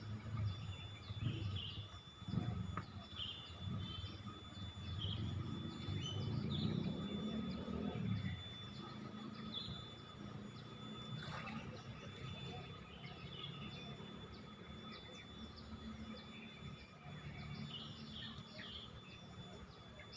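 Small birds chirping in short, repeated calls throughout, over a low rumble of background noise that is strongest in the first half.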